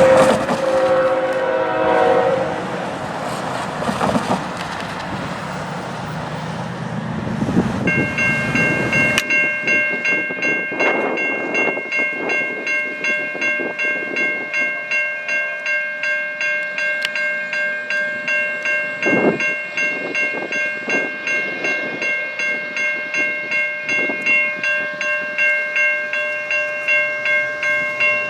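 Freight train passing: a diesel locomotive's horn chord ends about two seconds in, followed by the train's rumble. From about eight seconds on, a level-crossing bell rings steadily in a regular pulse, with scattered clanks and knocks from the passing cars.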